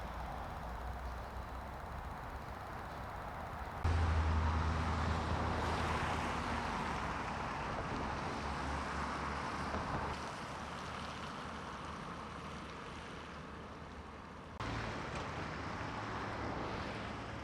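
Steady low rumble of a running vehicle with a noisy hiss over it. The sound changes abruptly about four seconds in and again near the end.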